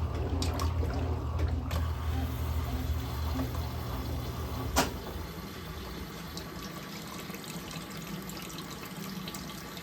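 Electrolux LM08A top-load washing machine with water running in it over a low motor hum. About halfway through there is a single sharp click, and the hum stops while the water keeps flowing.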